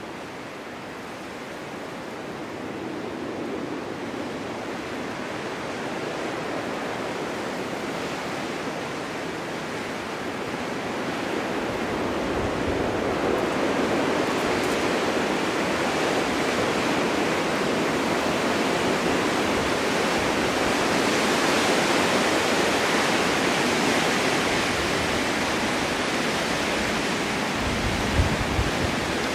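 Snowstorm wind blowing steadily, growing stronger through the first half and staying strong, with a couple of brief low buffets near the end.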